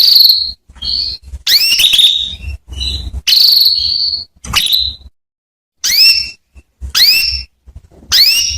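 Female domestic canary calling: about nine short calls, some sweeping upward and some held as brief steady whistled notes, each a fraction of a second long with clean gaps between.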